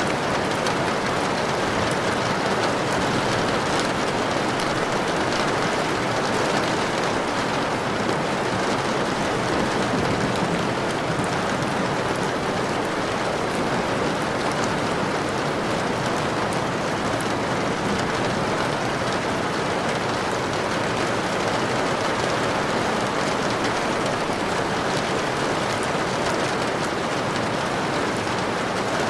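Steady rain falling, an even hiss and patter that holds the same level throughout.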